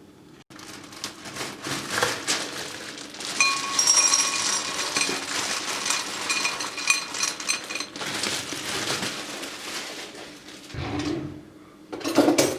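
Dishes and cutlery clinking and clattering as kitchenware is handled, with a stretch of ringing clinks in the middle and a heavier knock near the end.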